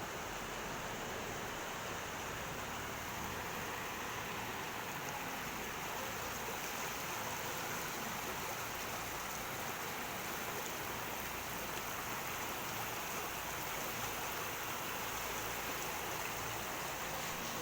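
Steady rushing of the flooded Narayani River, an even wash of water noise without a break.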